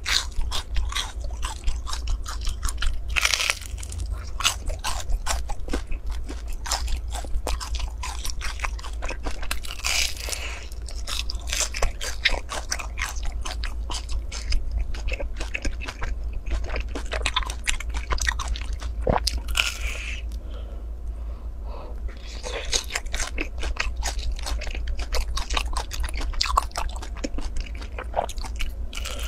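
Close-miked biting and chewing of crisp-crusted brown-sugar glutinous rice cakes (ciba): dense crunching and crackling from many small bites and chews, over a steady low hum.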